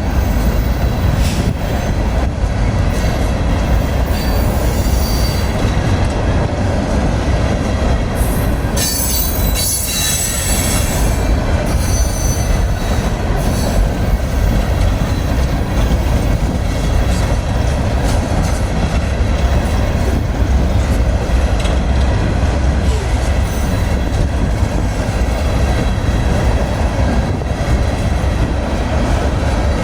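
A train's cars rolling past close by with a steady heavy rumble. Steel wheels squeal in high, screeching streaks several seconds in and again around the ten-second mark.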